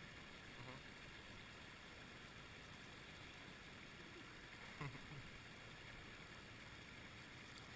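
Near silence: a faint, steady rush of flowing creek water, with a brief faint voice about five seconds in.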